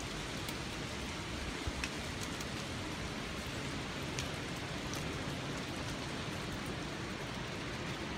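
Steady rain-like patter and rustle of many dry leaves falling through branches and landing, with scattered light ticks.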